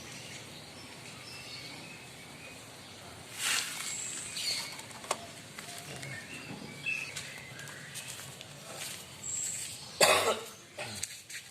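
White-rumped shama giving scattered short, high chirps and whistles rather than full song. Two brief noisy bursts break in, about three and a half seconds in and a louder one near the end.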